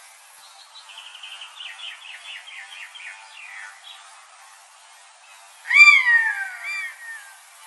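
Birds calling: a quick run of chirps over about three seconds, then about six seconds in a loud call that slides down in pitch, followed by a shorter, fainter one.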